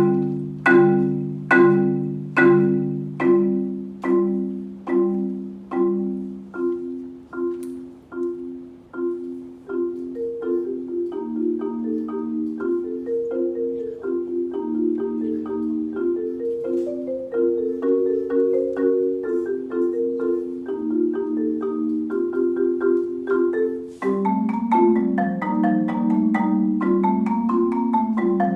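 Solo marimba played with four mallets: chords struck about three times every two seconds, each ringing and fading, then a quicker flowing line of notes from about ten seconds in, growing louder and fuller near the end.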